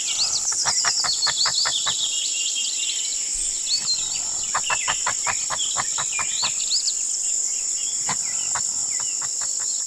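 Outdoor nature ambience: a steady high-pitched drone of insects, with birds chirping over it. Runs of rapid ticking come and go, the longest about a second and a half in and again around five seconds in.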